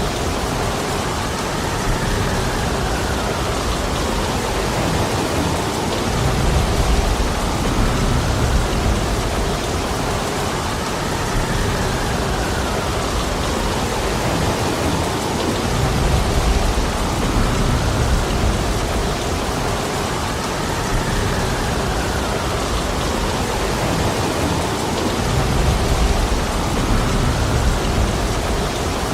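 Heavy rain pouring steadily in a forest with wind, as a dense even hiss. A low swell rises about every nine seconds, near 7, 16 and 26 seconds in.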